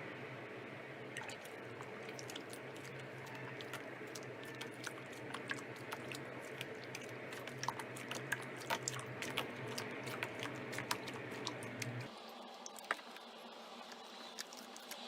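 Slime being squeezed and pressed, crackling with many small sharp pops, over a steady low hum that cuts off near the end.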